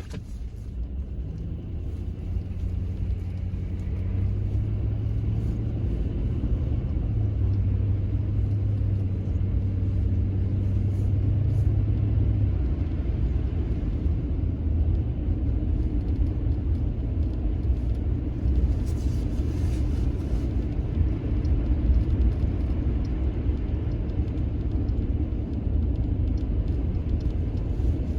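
Motor vehicle running with a steady low rumble. A pitched engine hum sits over it until about twelve seconds in, then drops away, leaving an even low roar.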